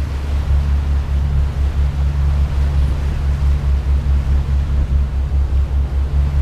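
Tour boat's engine running steadily under way, a deep drone with an even pulsing beat, with a hiss of wind and water over it.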